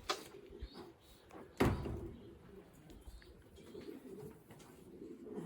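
Racing pigeons cooing softly in the loft, with a sharp click at the start and a louder knock about a second and a half in.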